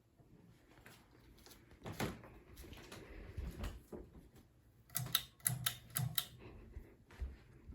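A single knock about two seconds in, then a quick run of sharp, lightly ringing clicks about five to six seconds in.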